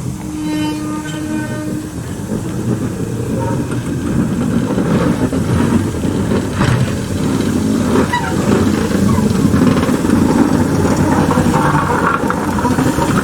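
A steam locomotive whistle sounds once, one steady note of under two seconds. Then the loud rumble of the locomotive and its train grows and stays loud as it works past.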